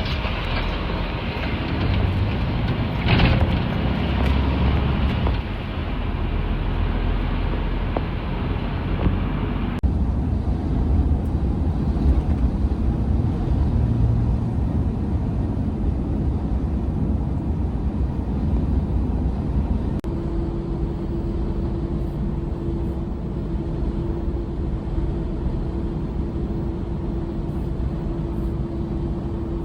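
Truck engine and road noise while driving, a steady low drone. About ten seconds in the sound changes abruptly, losing its upper hiss, and a steady hum tone joins near the twenty-second mark.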